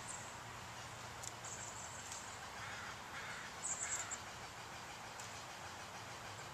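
A bird gives three short, harsh calls in quick succession about halfway through, over a steady outdoor background.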